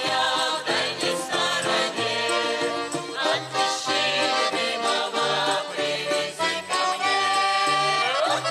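Instrumental Russian folk music from an ensemble, with sustained melody notes over a steady alternating bass beat and a rising glide near the end.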